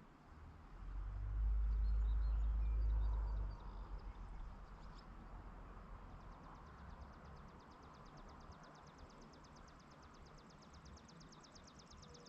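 Quiet rural outdoor ambience. About a second in, a deep rumble rises and holds for a couple of seconds before dropping away. From about halfway on comes a steady, fast, high-pitched pulsing trill.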